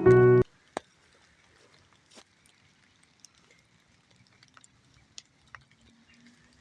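Piano background music cuts off about half a second in, leaving near silence broken by a few faint, scattered ticks, with one sharper click just after the music stops.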